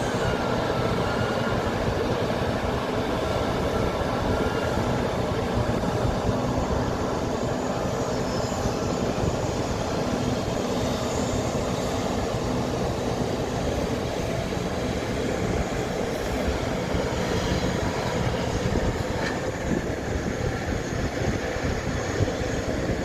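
Heavy open-pit mining machinery, large diesel excavators at work loading overburden, running with a steady rumble and faint high squeals now and then.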